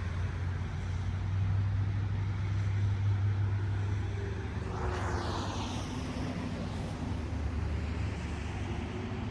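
Cars passing on a road over a steady low engine hum, one going by about five seconds in, with a distant tornado siren sounding faintly beneath the traffic.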